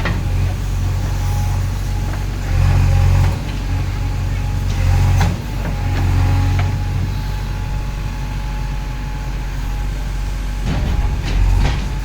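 JCB 3DX backhoe loader's diesel engine running under load, getting louder in short surges several times, with a few knocks.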